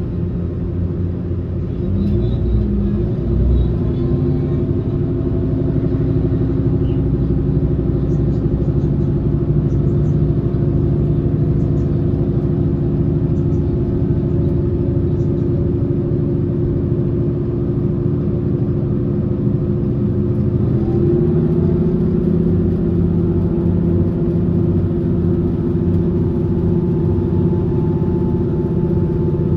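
Running sound of a Taiwan Railway passenger train in motion: a steady low rumble with a layered hum of several tones, which step up in pitch about 21 seconds in.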